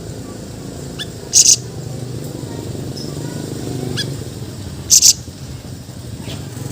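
Siri-siri bird giving two short, very loud, high-pitched call bursts, about a second and a half in and again about five seconds in, each preceded by a faint quick chirp, over a steady low background rumble.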